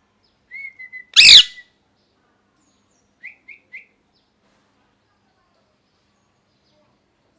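Pet ringneck parakeet calling: a short whistle, then just after a second one loud harsh screech, and about three seconds in three quick chirps.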